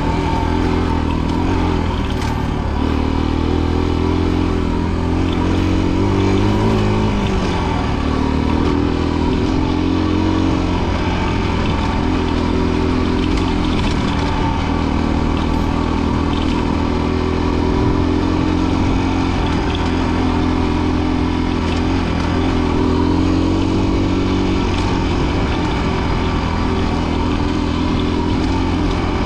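Rieju Marathon Pro 125 enduro motorcycle's single-cylinder engine running as it is ridden, its pitch rising and falling with the throttle, with a brief rev-up about six seconds in.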